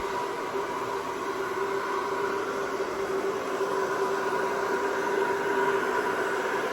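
Hair dryer running steadily, blowing fluid acrylic paint across a canvas: an even rush of air with a constant motor whine.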